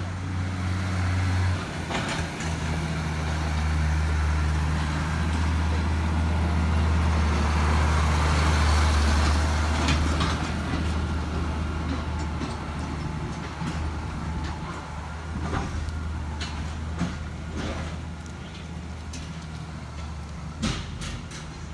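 A heavy diesel engine running with a steady low drone. Its note changes about two seconds in, and it grows louder toward the middle before easing off. A few sharp metallic knocks come near the end.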